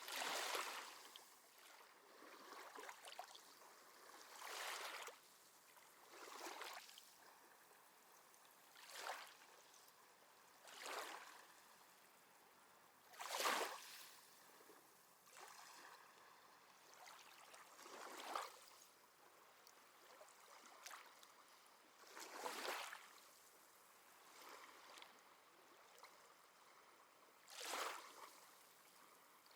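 Small sea waves lapping at the shore: a short, soft splash every two to three seconds over a faint steady wash of water.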